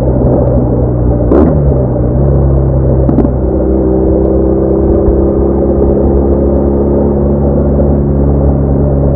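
BMW R1200R motorcycle's boxer-twin engine running while riding, a steady droning note. Its pitch drops with a brief click about a second and a half in and changes again a little after three seconds.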